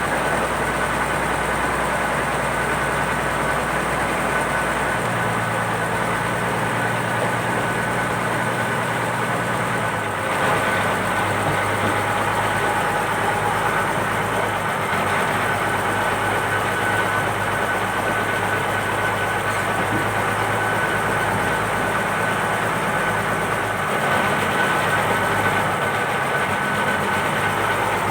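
Purse-seine fishing boat's engine running steadily, with a steady high whine over it. The low engine note changes pitch about five seconds in and again about ten seconds in.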